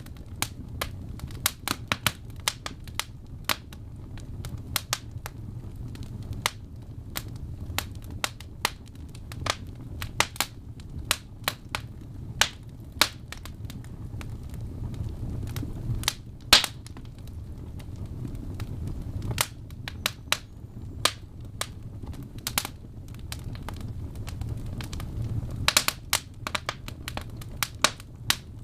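Log fire crackling in a fireplace: irregular sharp pops and snaps over a steady low rumble of burning, with one loud pop about halfway through and a quick run of snaps near the end.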